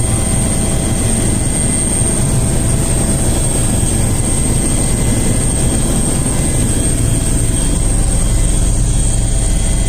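Helicopter running loud and steady, its rotor and turbine making a heavy rumble with a constant high-pitched whine over it.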